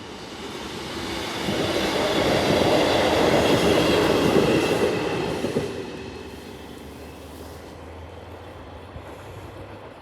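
A train passing the level crossing: its rumble builds to the loudest point a couple of seconds in, holds for about three seconds, then fades after about six seconds to a steady low drone, with thin high tones riding over the passing noise.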